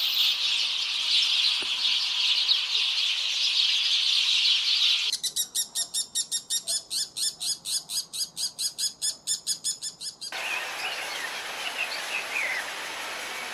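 Birds calling in three back-to-back clips: a dense, high chatter of many birds, then a rapid call repeated about five times a second, then softer scattered chirping.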